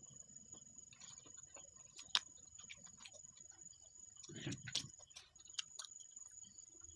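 Faint close-up chewing of crisp fried frog adobo, with a few sharp crunches and clicks, the loudest about two seconds in and just before the five-second mark. A steady faint high-pitched whine runs underneath.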